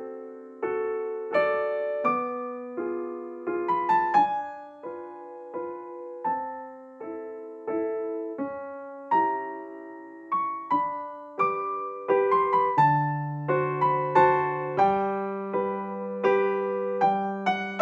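Background piano music: a gentle melody of single struck notes, each fading after it is played, with lower bass notes joining in about two-thirds of the way through.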